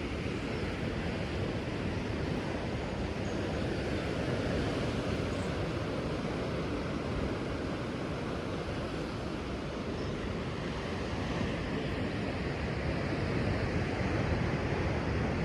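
Steady wash of surf from a rough sea.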